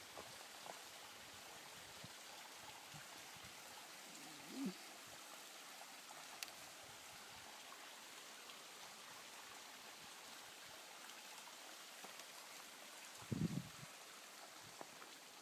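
Faint, steady rush of a small waterfall running at low flow. Two brief low thumps, about a third of the way in and near the end.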